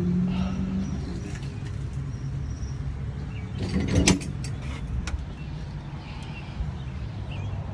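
A vehicle engine idling steadily, with a quick cluster of metal clinks from the hose fittings being handled about four seconds in and a couple of lighter clicks just after.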